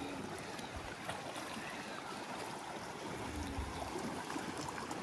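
Steady rush and trickle of flowing water.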